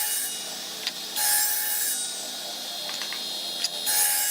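A hand tool scraping across wood in repeated strokes, two full strokes about three seconds apart, with a few light knocks between them.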